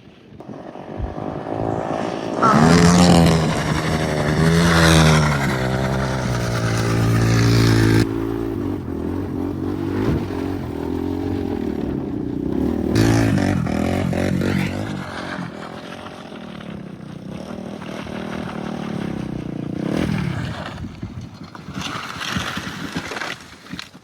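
Honda 400EX quad's single-cylinder four-stroke engine revving up and down repeatedly as it is ridden on slick drain-tile tire sleeves, loudest in the first third with hard revs rising and falling.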